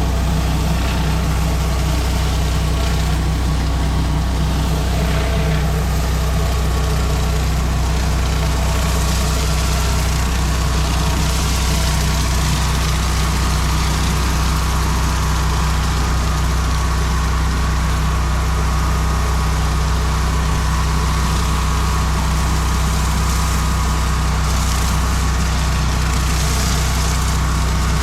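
Pressure washer's engine running steadily, with the even hiss of the high-pressure water spray over it.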